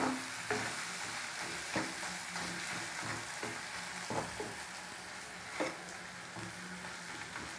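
Chopped onion, tomato and green chilli sizzling in oil in a kadai as they sauté, with a perforated ladle knocking and scraping against the pan a few times while stirring.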